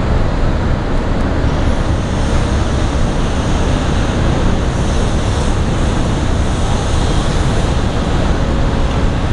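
Steady wind noise on the microphone over a deep, even rumble aboard a moving cruise ship.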